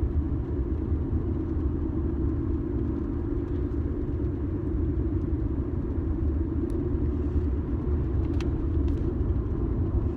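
Car interior road noise while driving: a steady low rumble of engine and tyres heard from inside the cabin, with a few faint clicks and rattles near the end.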